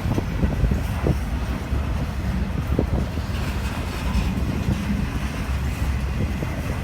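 A train rolling past: a steady low rumble with scattered short knocks of wheels over the rail, and wind on the microphone.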